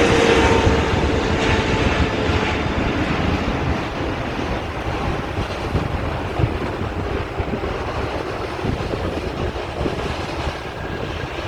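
Boeing 777 jet engines rumbling, with a falling whine that fades in the first few seconds as the aircraft passes; the overall noise slowly dies away.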